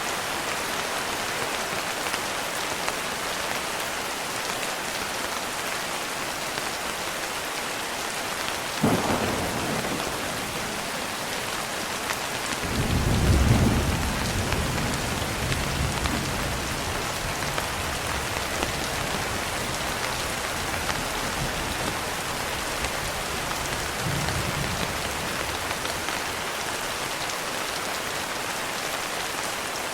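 Steady rain falling on a window, with thunder: a sharp crack about nine seconds in, then a loud low rolling rumble a few seconds later, and a fainter rumble later on.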